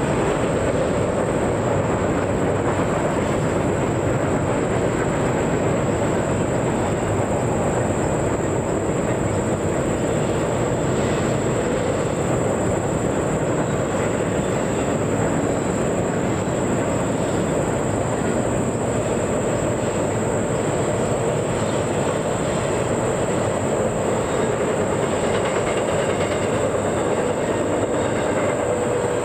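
A train rolling steadily past, its cars' wheels running over the rails in an even, continuous rumble and rattle.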